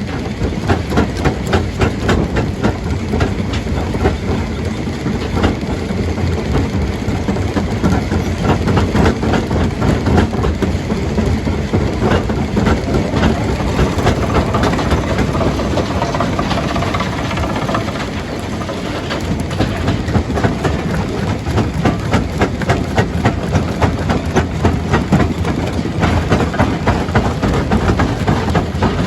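Primary jaw crusher running under load, a heavy machine drone with rock cracking and clattering as stone is crushed, in dense, irregular knocks. The clatter eases briefly about two-thirds of the way through, then picks up again.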